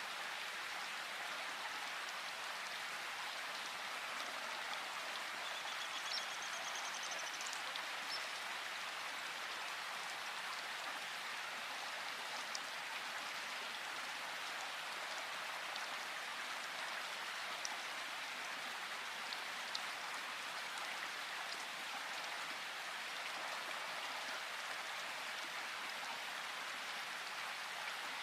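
Steady rain falling in a forest, an even pattering hiss. A short high chirping trill from a bird comes through about six seconds in.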